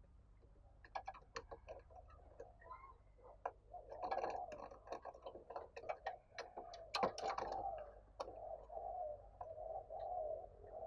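Spotted dove cooing in short, low, repeated notes, starting about four seconds in and settling into an even series after about eight seconds, with a run of sharp clicks and taps before and during the first notes.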